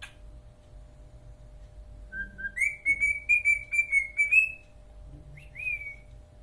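Cockatiel whistling: two short low notes, then a long wavering whistle of about two seconds, and a short swooping note near the end.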